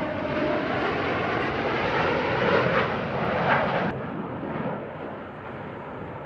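US Navy Blue Angels F/A-18 jets flying by with a loud jet roar that turns quieter and duller suddenly about four seconds in.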